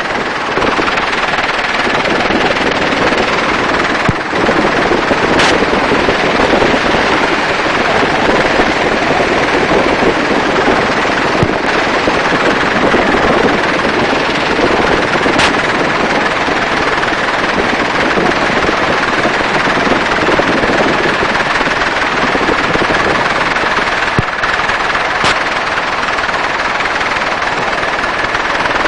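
Helicopter in flight heard from inside the cabin: a loud, steady rotor and engine noise, with a few single sharp cracks scattered through it.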